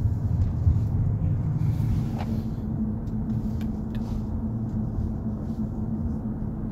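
Car interior noise while driving: a steady low rumble of engine and road, with a steady low hum and a few faint ticks.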